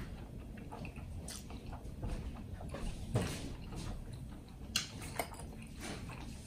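Close-miked chewing of creamy shrimp alfredo spaghetti: wet, soft mouth sounds. A few sharp clicks stand out, the clearest about three and about five seconds in.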